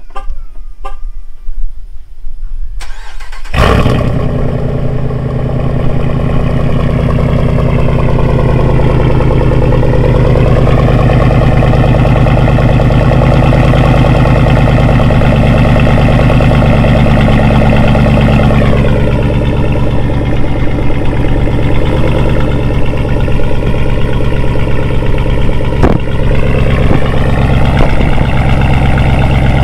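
A Jeep Commander's 5.7 Hemi V8, straight-piped with the resonator left on, fires up about three and a half seconds in and then idles steadily.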